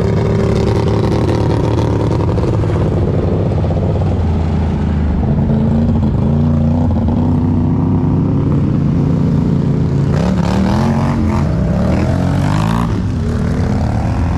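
Vehicle engine running steadily, with several quick rises and falls in pitch about ten to thirteen seconds in.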